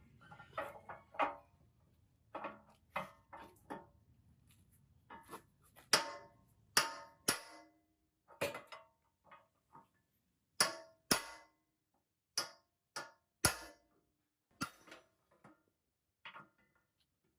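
Metal parts and tools clinking and clanking as they are handled and set down, about twenty separate knocks at irregular intervals, some ringing briefly. A faint low hum sits under the first few seconds.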